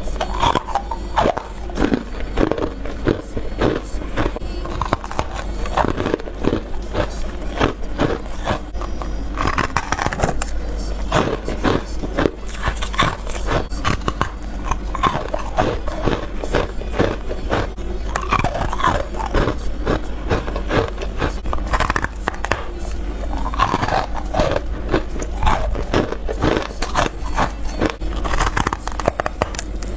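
Freezer frost and ice being bitten and crunched between the teeth close to the microphone, a dense run of irregular sharp crunches, one bite after another.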